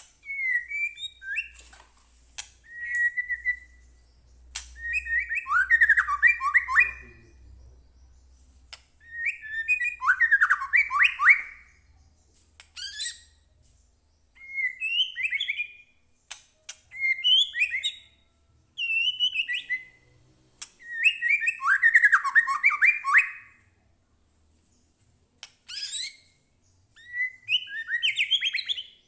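White-rumped shama singing in loud, varied whistled phrases with short pauses between them, mixed with sharp clicking notes.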